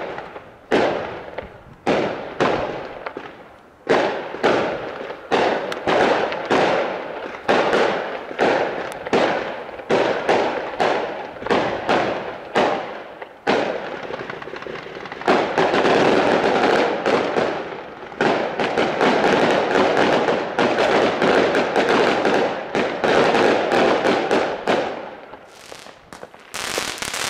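A long series of sharp bangs, each fading away, about one or two a second, giving way about halfway through to a dense, continuous crackling that thins out near the end.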